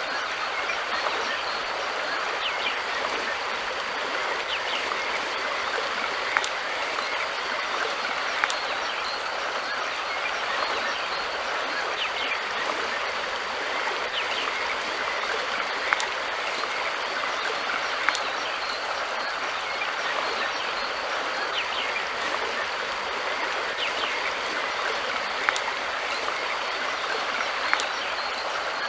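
River water flowing steadily, a constant rushing over the stream bed, with a sharp click or plink every few seconds.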